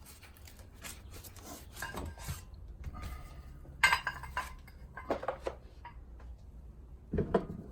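Metal parts of a ball joint press and a steering knuckle clinking and knocking together as they are handled and fitted. The knocks are irregular, with the loudest about four seconds in and near the end.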